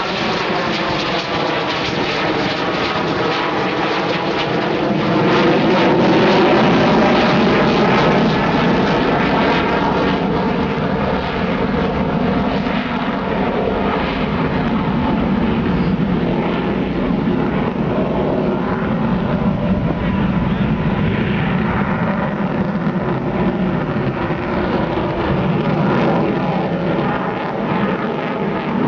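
F-16 fighter jet's single jet engine as the aircraft flies its display overhead: a loud, continuous rushing noise with sweeping, shifting tones as it moves across the sky. It swells to its loudest about six seconds in.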